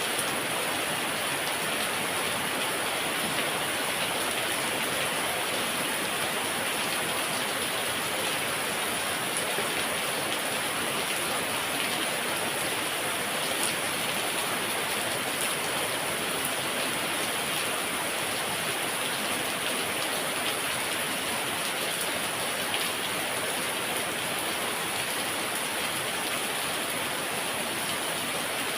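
Heavy rain falling steadily, a dense even patter with scattered drop ticks.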